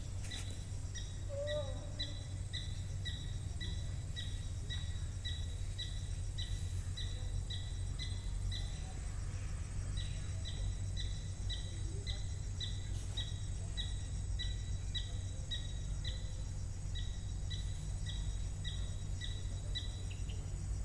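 A bird calling with a short, high, falling chirp repeated about twice a second, pausing briefly about nine seconds in and then carrying on, over a steady low rumble.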